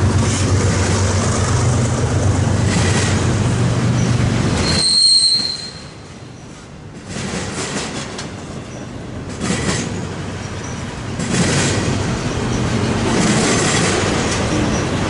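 Diesel freight locomotives passing under load with a steady low drone, then, about five seconds in, the train's cars rolling by with a brief high wheel squeal and repeated clatter of wheels over the rail.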